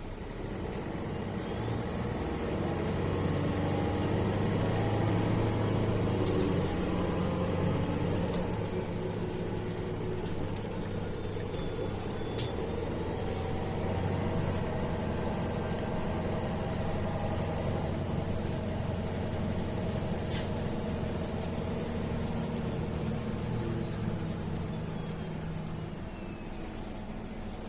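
City bus heard from on board while under way: the diesel engine and drivetrain hum, swelling over the first few seconds as it gathers speed, running steadily, then easing off near the end.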